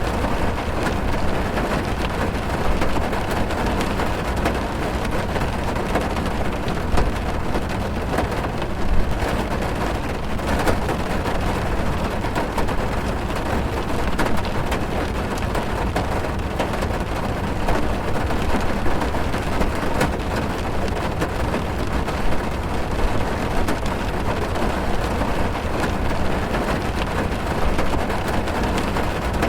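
Steady rain drumming on a car's roof and windows, heard from inside the cabin, with a low rumble underneath and many small drop ticks.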